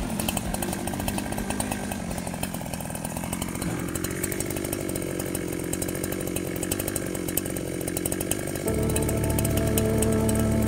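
Ogawa Pro VX8224 two-stroke chainsaw running off the cut. The engine drops back from a higher speed to a steady idle about four seconds in. About nine seconds in, steady background music comes in over it.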